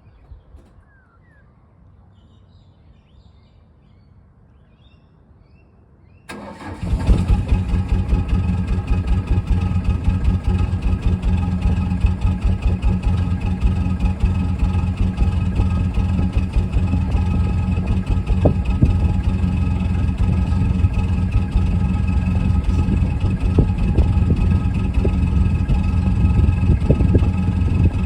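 After about six seconds of quiet, a Mazda Bravo B2500's four-cylinder diesel engine cranks briefly and fires on a cold start, then settles into a steady, pulsing idle. The owner suspects the idle is rough because of a bad glow plug.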